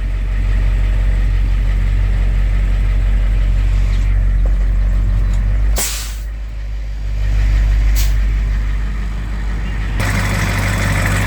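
Heavy truck engine idling steadily, with two short hisses of air from its air brakes about six and eight seconds in.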